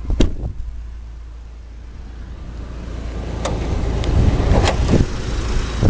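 A sharp latch click, then several clunks about three and a half to five seconds in, from a 2006 Hummer H3's hood being released and opened, over a steady low rumble.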